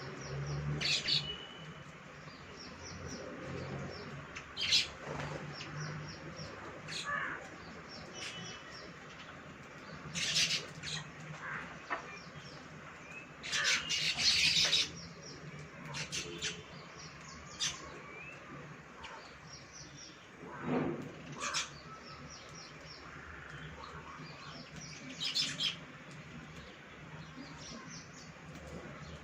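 Baya weavers chirping and chattering: short high calls and quick runs of ticking notes come in scattered bursts, with a few louder sharp calls among them.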